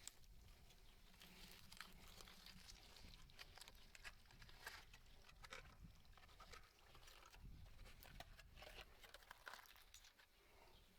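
Faint, scattered clicks and crunching sounds over near silence.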